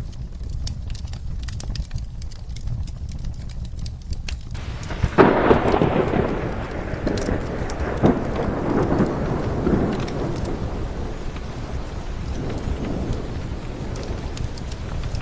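Steady rain with the scattered sharp pops of a crackling wood fire, then about five seconds in a thunderclap breaks and rolls, fading away over several seconds.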